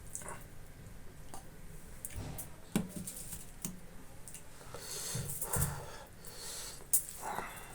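Close-miked eating sounds of a person chewing pork and rice: wet smacks and mouth clicks at an irregular pace, with two sharper clicks about three and seven seconds in.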